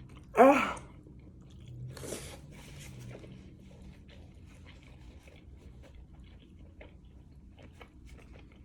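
A person chewing food close to the microphone, with faint wet mouth clicks throughout. Just under half a second in comes a short voiced 'ah', the loudest sound.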